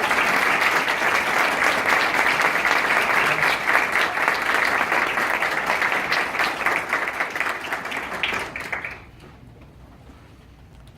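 Audience applauding, a dense clapping that thins to a few scattered claps and stops about nine seconds in.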